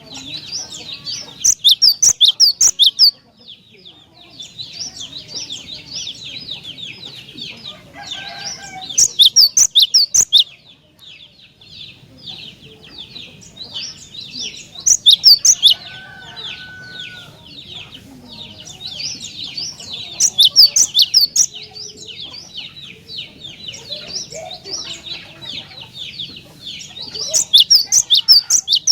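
Cinereous tit (glatik batu) singing: loud bursts of fast repeated high notes about every six seconds, five times, over a steady background of high chirping and chattering.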